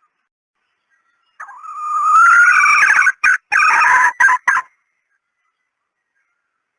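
Red junglefowl hen calling: one loud call of about three seconds starting about a second and a half in, rising at first and breaking into a few short pieces near its end.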